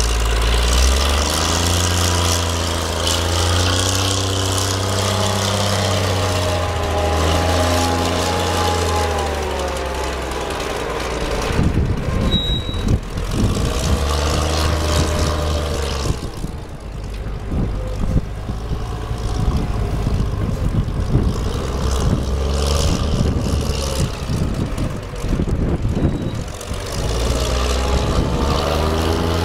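An engine running with its pitch drifting slowly. In the middle it is joined by a rough, irregular rumble and crackle, then runs steadily again near the end.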